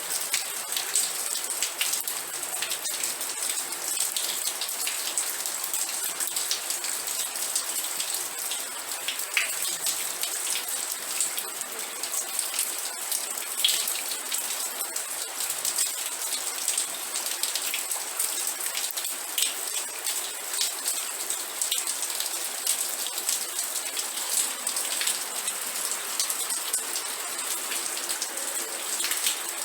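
Steady rain falling, with many individual drops striking a surface in a dense, even hiss.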